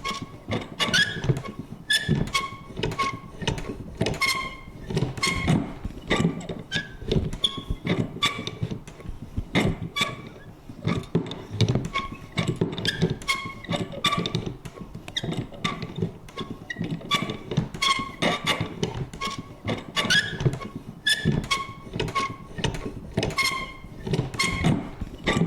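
A vintage paper punch worked over and over, giving a quick, uneven run of clicks and knocks, many of them with a short creaky squeak.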